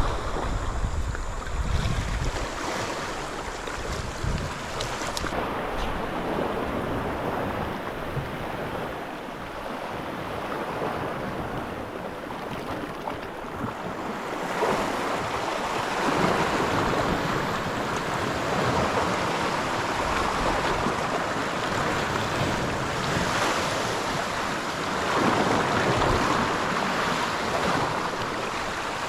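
Sea water sloshing and wind gusting over the microphone on a small boat, a steady rushing noise that grows louder about halfway through.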